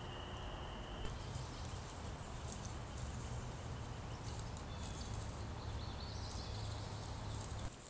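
A small bird gives four quick, high, rising chirps about two seconds in, over a steady low outdoor rumble.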